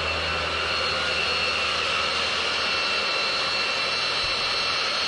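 Machinery running steadily: a continuous drone with a high whine, its low hum weakening about three seconds in.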